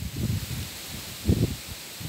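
Heavy wind gusting, rumbling on the microphone in irregular bursts over a steady high hiss.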